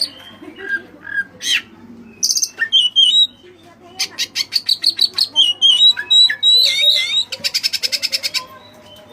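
Oriental magpie-robin (kacer) in loud, varied song: whistled phrases that glide up and down, runs of sharp repeated notes, and a fast rattling trill near the end. This is the song used to provoke and lure a rival.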